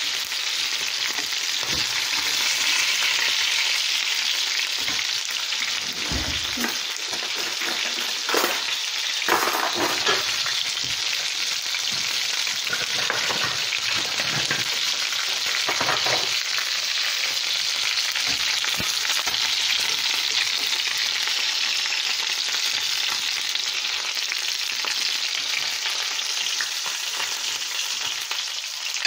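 Chicken pieces frying in hot oil in a stainless steel frying pan: a steady loud sizzle, with a few knocks and scrapes of a wooden spatula against the pan between about a fifth and a half of the way through.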